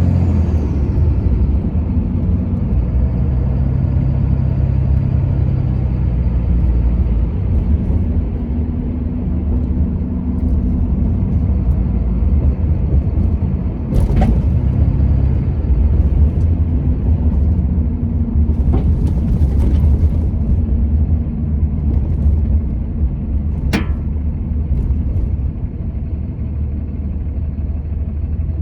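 Steady engine and road rumble of a vehicle being driven, with a sharp click about halfway through and another near the end.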